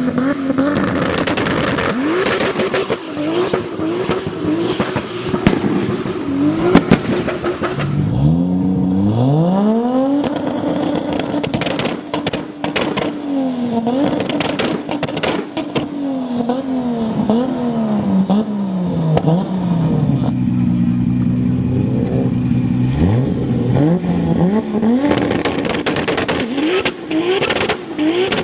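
Single-turbo Toyota Supra's 2JZ straight-six revved over and over, the pitch swinging up and down, with a few pulls up from low revs and a couple of seconds held at a steady rev. Sharp pops and crackles sound throughout.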